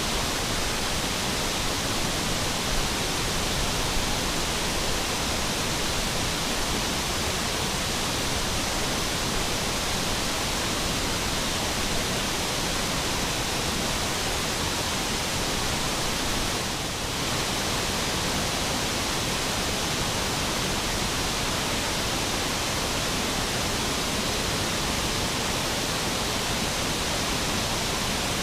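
Waterfall: the steady rush of falling water, with a brief slight dip about two-thirds of the way through.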